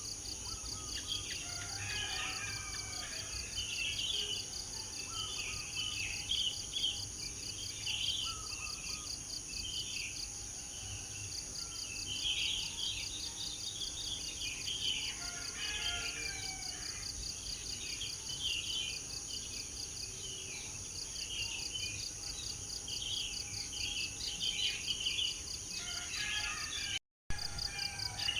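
Several birds chirping and twittering over a steady, high-pitched insect drone with a fast pulsing trill. The sound cuts out for a split second near the end.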